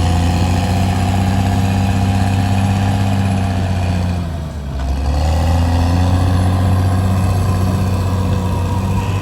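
CAT D6R bulldozer's diesel engine running hard. About four and a half seconds in, the engine note dips briefly, then comes back up to speed.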